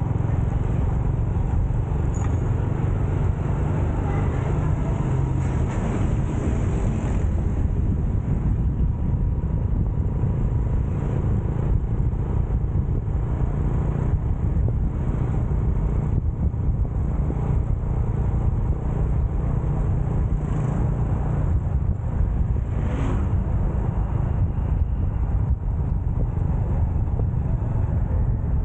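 Motorcycle engine and road noise while riding: a steady low rumble, with a short louder passing sound about 23 seconds in.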